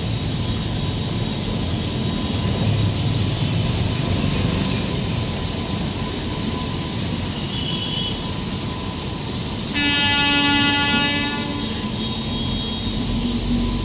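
Steady rumble of a moving train, with the train's horn sounding once for about a second and a half, about ten seconds in.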